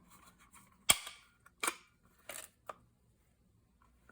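Small handheld tab punch snapping shut on paper with a sharp click about a second in, followed by a few softer clicks and knocks as it is handled.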